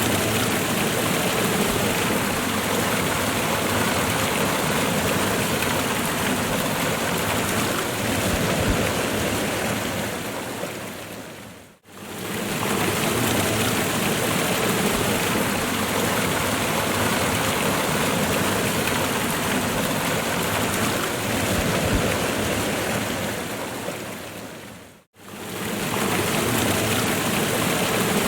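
Waterfall water rushing and splashing in a steady, even roar of noise. The sound fades down to a brief silence twice, about 12 and 25 seconds in, and comes straight back each time.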